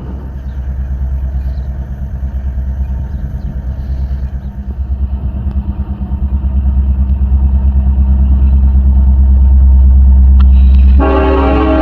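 Norfolk Southern freight train's diesel locomotives approaching with a deep, pulsing engine rumble that grows louder. The locomotive's air horn starts blowing about a second before the end.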